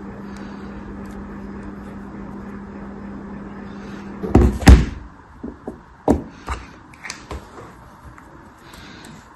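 Two loud thumps about four seconds in, followed by a run of lighter knocks and clicks, over a steady low hum that stops just before the thumps.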